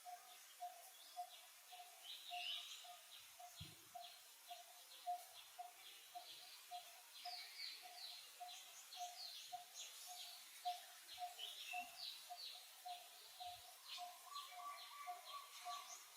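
Faint birdsong: one bird repeats a single low note evenly, about two to three times a second, while quick series of higher chirps come and go over it.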